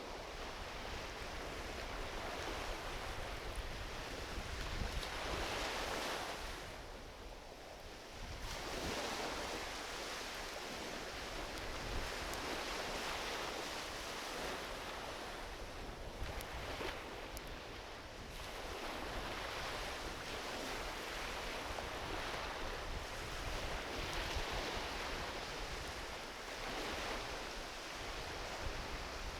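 Gentle ocean waves washing onto a beach, swelling and easing every few seconds. A few faint pops from a driftwood campfire come about two-thirds of the way through.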